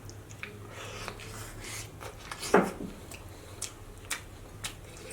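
Close-miked eating sounds: chewing and wet mouth smacks with scattered sharp clicks, and one louder wet smack about two and a half seconds in.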